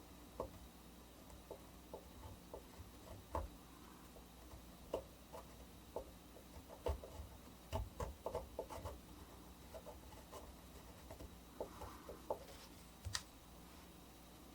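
Etching needle drawing on a copper plate: irregular small ticks and light scratches, some in quick clusters, over a faint steady hum.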